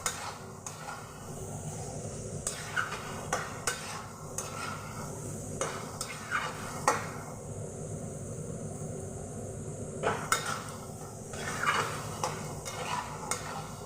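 A spatula stirring and scraping chicken and banana stem frying in a kadai, with a light sizzle and irregular clinks against the pan. The stirring pauses for a few seconds past the middle, then resumes.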